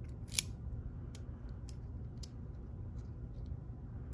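Small metal clicks and taps from the parts of a disassembled ASSA Twin lock cylinder being handled, with one sharper click about half a second in, then a few lighter ones.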